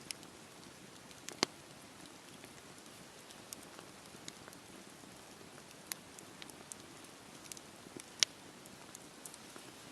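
Wood fire crackling: irregular sharp pops and snaps over a faint steady hiss of burning, with two louder pops about a second and a half in and near the end.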